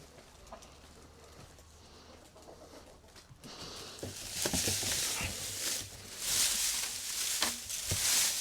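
Chickens clucking, with loud bursts of rustling and scraping that begin about halfway through.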